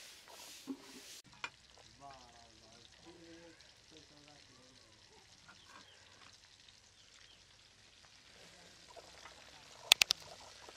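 A whole chicken frying in oil in a wok, sizzling faintly, with a few sharp metallic clinks of a steel ladle against the wok near the end.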